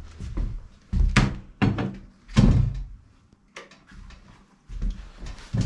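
About half a dozen separate knocks and thunks, the loudest in the first half, like something wooden being handled and set down.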